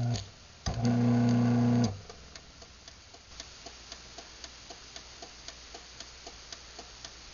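Craftsman garage door opener refusing to close because its safety sensors are blocked: a short low electrical hum near the start, then its light relay clicking about three or four times a second as the opener light flashes 10 times, the opener's sign of blocked, misaligned or failed safety sensors.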